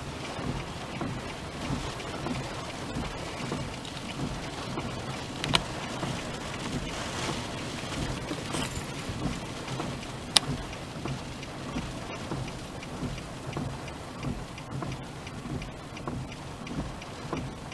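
Rain falling steadily on a car, heard from inside the cabin, with two sharp ticks about five and ten seconds in.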